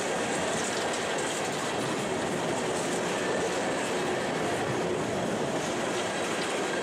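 Empty coal cars of a freight train rolling past close by: a steady noise of steel wheels running on the rail.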